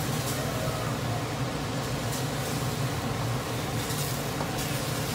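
Chicken pieces frying and sizzling in a wok on high heat as they are stirred through caramelised (browned) sugar, with a few soft scrapes of a silicone spatula. A steady low hum runs underneath.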